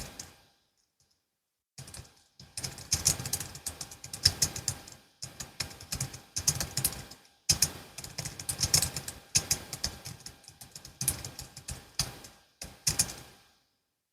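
Typing on a Logitech MX Keys S low-profile scissor-switch keyboard: fast runs of light key clicks in bursts. There is a pause of over a second near the start, and the typing stops shortly before the end.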